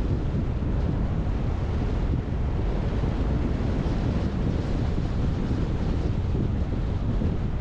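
Steady rumble of a car driving, road and wind noise with no let-up, heaviest in the low range.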